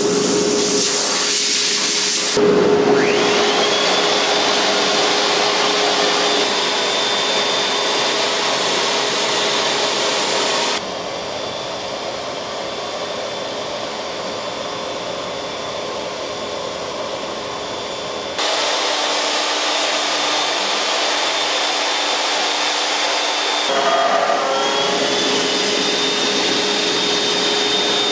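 CNC router's spindle motor running steadily as it cuts, a continuous motor whine with a high tone that spins up a few seconds in and again near the end. The noise drops sharply in level about 11 seconds in and comes back about 18 seconds in.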